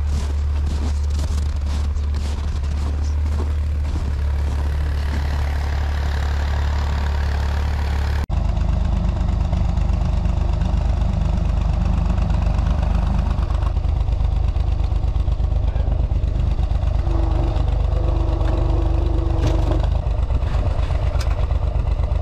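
A vehicle engine running steadily at idle, with a sudden change in the sound about eight seconds in.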